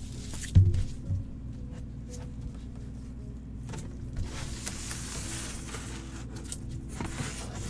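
Handling of the packaging around a signed 16-by-20 photo: two dull thumps, then a few seconds of rustling as it is unwrapped.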